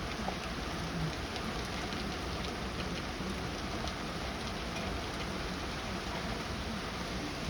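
Heavy rain falling steadily, with scattered ticks of individual drops.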